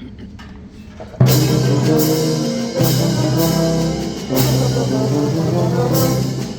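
A band with brass and percussion comes in loudly about a second in with sustained full chords. Fresh accented entries follow roughly every second and a half, the opening of a galop.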